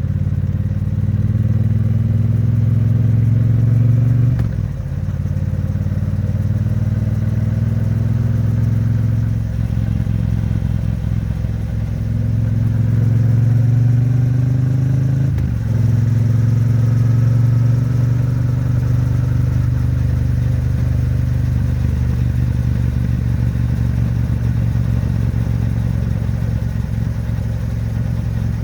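Triumph Bonneville T100's 900 cc parallel-twin engine pulling through the gears. The pitch climbs, drops at two upshifts about 4.5 and 15 seconds in, then settles into a steady cruise. It is held at moderate revs because the bike is still being run in.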